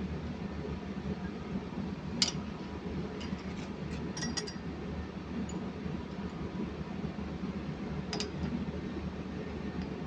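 Small metal clinks of hand tools and engine parts being handled: one sharp clink about two seconds in, a cluster of lighter clinks around four seconds, and another near the end, over a steady low background hum.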